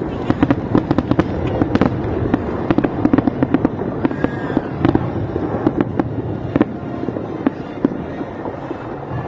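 Fireworks display with rapid, overlapping bangs and crackling over a continuous rumble, easing off slightly near the end.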